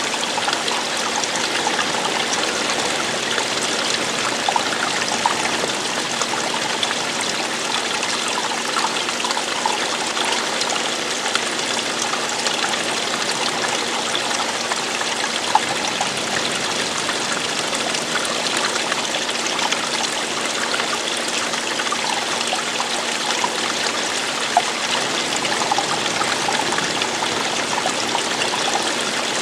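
Running water trickling and splashing in a steady, unbroken rush, with small splashes scattered through it.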